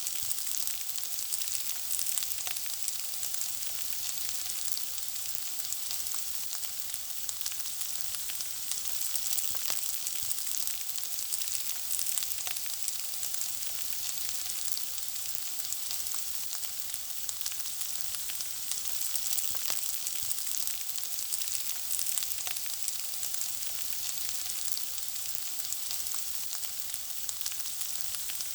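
Food frying: a steady sizzle with many small crackles and pops scattered throughout.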